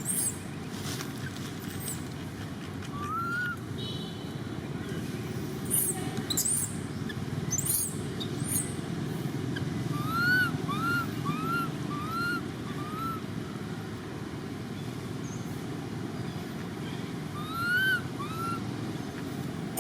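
Short rising-then-falling animal calls over a steady low rumble. One comes about three seconds in, a quick run of five comes in the middle, and two more come near the end.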